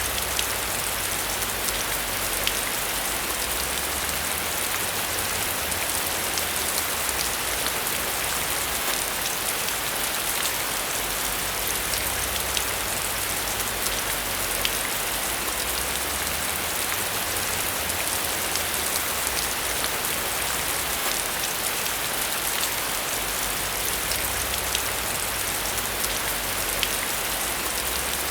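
Steady rain falling on a surface, a constant hiss flecked with many small drop taps, over a low rumble.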